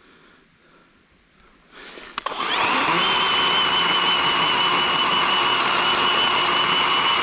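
Worx 40-volt cordless electric chainsaw with an 18-inch Oregon bar: a couple of clicks about two seconds in, then the motor winds up quickly and runs at a steady speed with a high whine, undercutting a downed tree trunk.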